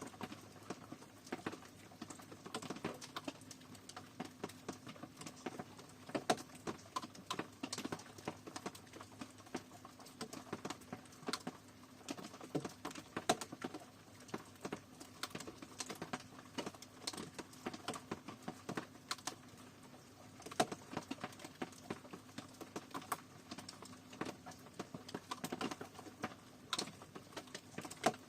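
Rain pattering: individual drops tapping irregularly, several a second, over a faint steady hiss.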